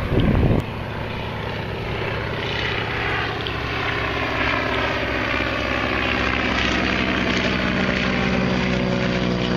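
An engine running steadily, a droning hum whose pitch drifts slowly as it goes.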